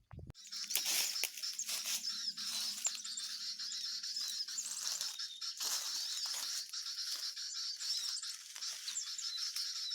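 Small birds twittering: a dense, continuous run of rapid high-pitched chirps. A faint low hum sits under the first half.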